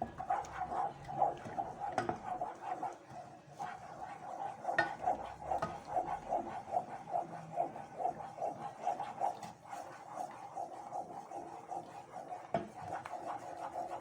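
A spoon stirring margarine as it melts in a saucepan over low heat, scraping the pan in a quick, steady rhythm, with a few sharper clinks of the spoon on the pan.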